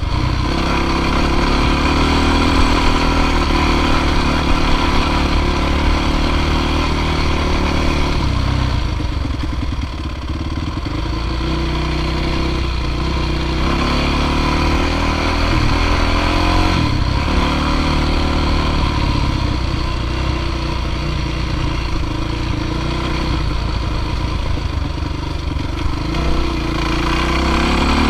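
Dirt bike engine running, its pitch and level rising and falling with the throttle and easing off briefly about ten seconds in.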